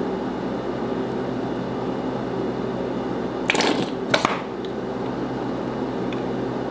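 A steady room hum, like a fan or air conditioner, with two short squishing or crinkling noises about three and a half and four seconds in.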